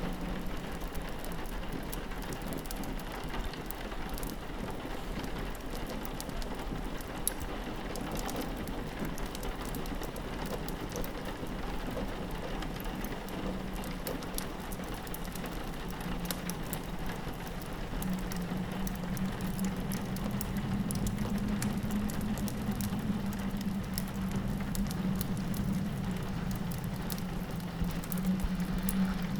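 Steady rain pattering on a window pane, mixed with small fireplace crackles, over a low steady drone that grows louder about two-thirds of the way through.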